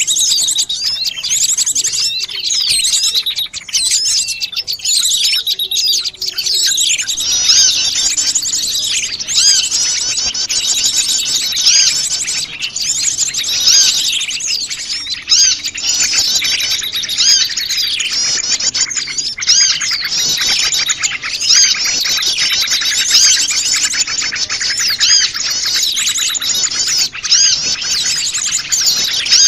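A noisy chorus of many small wild birds chirping and twittering over one another without pause, growing denser about seven seconds in. It is a mixed small-bird call recording of the kind used as a lure.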